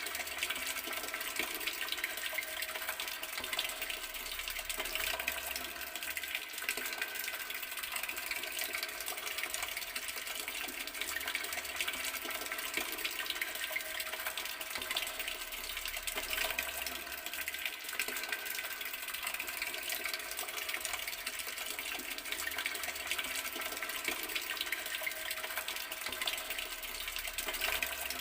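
Water running steadily from a garden tap, an even, unbroken rush.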